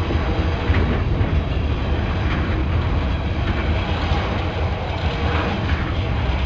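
Container flat wagons of an intermodal freight train passing at speed close by: a steady, loud noise of wheels running on the rails.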